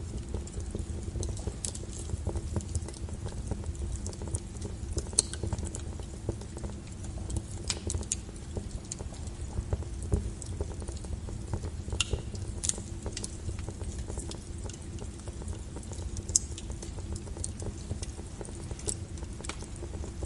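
Wood fire burning in a fireplace: a low steady rumble of flames with scattered crackles and a few sharper pops from the burning logs.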